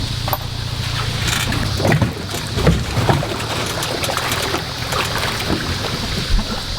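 An engine running steadily with a low hum, with wind noise on the microphone and a few short knocks.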